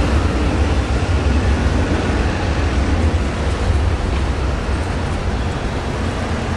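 A train rolling past at close range: a steady rumble of wheels on rail, heaviest in the bass, easing a little near the end.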